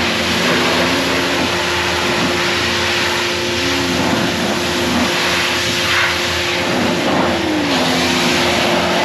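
Pressure washer running steadily, its motor and pump giving a constant hum under a continuous hiss of water spray as the car is washed.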